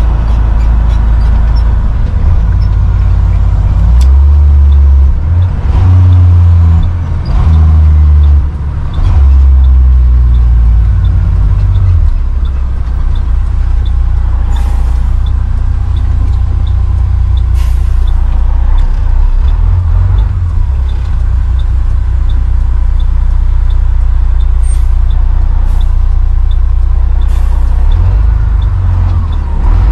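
Truck engine and road rumble heard from inside the cab, a heavy low drone that shifts level several times in the first half as the truck changes speed or gear. A light steady ticking runs under it, and a few short hisses come in the second half.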